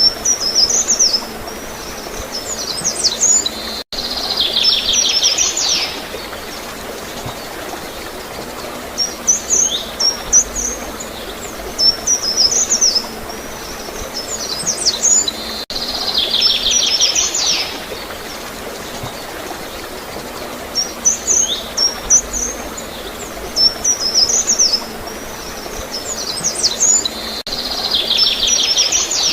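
Songbirds chirping in clusters of high notes, each cluster ending in a trill of about two seconds, over a steady gurgle of flowing water. The same stretch repeats about every twelve seconds, as in a looped recording.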